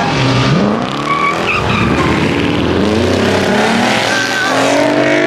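A car engine revving hard, its pitch dropping and climbing again in repeated swells, with tyres squealing as in a burnout or donut.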